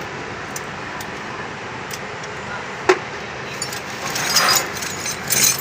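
Metal hand tools and parts clinking and tapping, with one sharp metallic knock about three seconds in and a run of light clinks near the end, during removal of a diesel injection pump.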